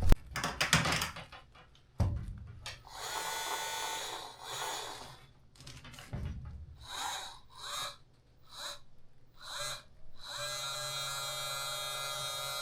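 Knocks and handling clatter, then from about ten seconds in a cordless press tool's motor whines steadily as it crimps a press fitting onto the refrigerant line's filter drier.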